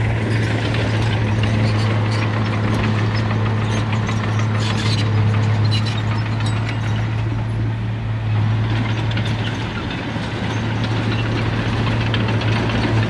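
Heavy diesel engine of a dump truck or bulldozer running steadily, with a strong low hum and some rattle.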